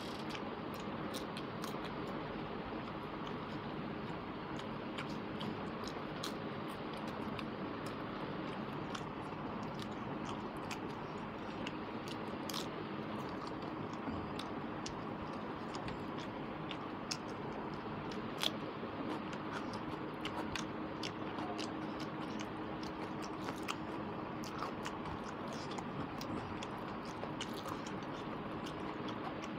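A person chewing mouthfuls of rice and chicken curry eaten by hand, close to a clip-on microphone, with scattered small clicks over a steady hiss.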